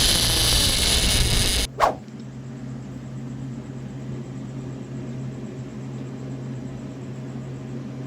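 Wind noise buffeting the microphone on a boat, cut off suddenly just under two seconds in by a short sharp sound falling in pitch. After that a much quieter steady low hum.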